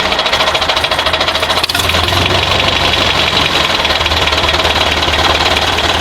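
Steady engine-running sound of a toy tractor with a fast, even chugging pulse, and one short click about a second and a half in.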